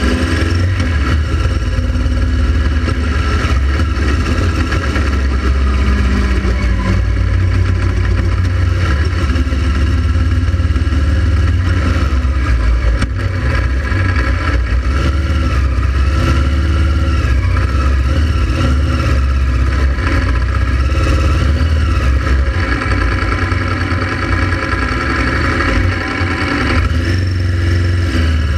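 Motorcycle running on the road, with a steady low rumble and no breaks.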